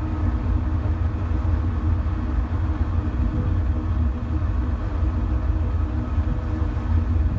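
Steady low rumble with a faint, even hum above it and no distinct events.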